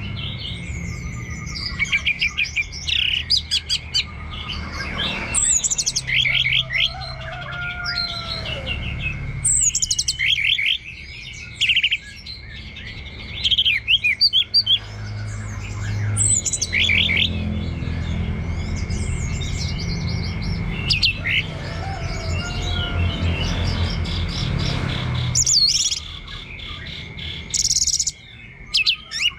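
Orange-headed thrush (anis merah) singing a long, varied 'teler' song: phrase after phrase of rapid trills, sweeping whistles and chirps with short pauses between them. A steady high whine and a low hum run underneath.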